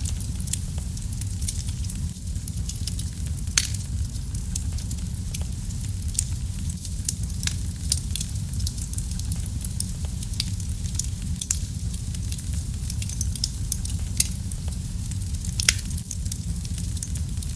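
Wood fire in a fireplace crackling, with frequent small sharp pops and a few louder ones over a steady low rumble of the flames.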